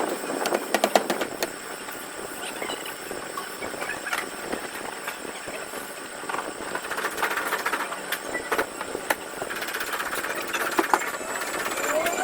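Paintless dent repair on a car body panel: a quick run of light taps on the sheet metal, mostly between about half a second and a second and a half in, with scattered single taps later over a steady background hiss.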